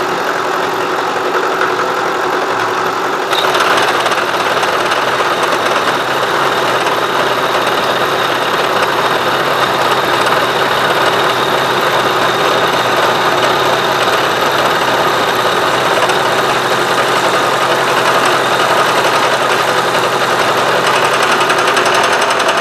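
Milling machine running with its cutter taking a slow cut of about 82 thousandths of an inch off the side of a key; a steady machining sound that grows louder about three seconds in.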